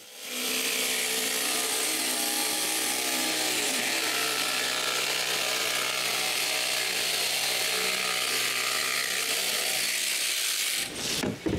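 Handheld electric power tool running steadily under load, cutting to enlarge a hole. It starts just after the beginning and stops about eleven seconds in.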